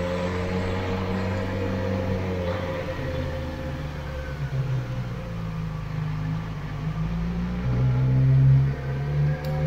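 Motorcycle engine running at low speed, with a brief rise in revs about eight seconds in.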